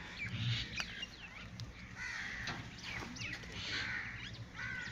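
Birds calling again and again, short calls every half second to a second, with a couple of sharp clicks in the first two seconds.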